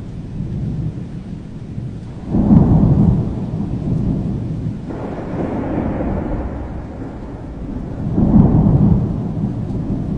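Thunder rumbling over steady rain, with two loud swells of rumble, one about two seconds in and one about eight seconds in.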